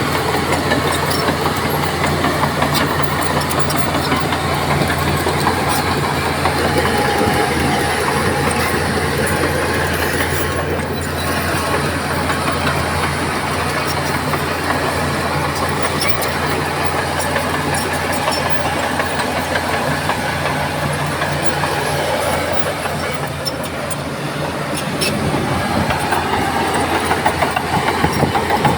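Heavy diesel earthmoving machinery running steadily under load, a deep engine drone with scattered clatter. The engine grows louder about 25 seconds in.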